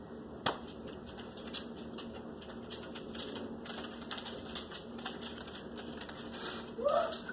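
Paper Monopoly money rustling and fluttering down, with many light irregular clicks and crinkles as the notes fall and land, one sharper click about half a second in. A brief voice sound near the end.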